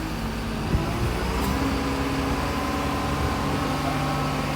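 A heavy vehicle's engine running steadily, its pitch stepping to a new level a couple of times. There is a single short click near the start.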